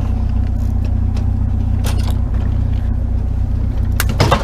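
Truck engine idling steadily, with a couple of knocks and clatter about two seconds in and near the end as a bicycle is shoved into the loaded truck bed.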